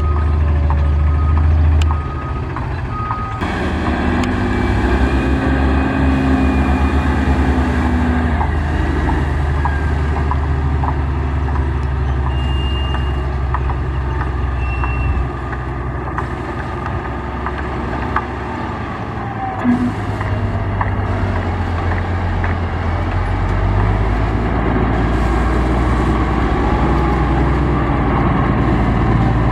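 Heavy construction machinery running with a deep, steady engine rumble, while a reversing alarm beeps at an even pace for the first three seconds or so and then stops. The engine sound changes abruptly several times.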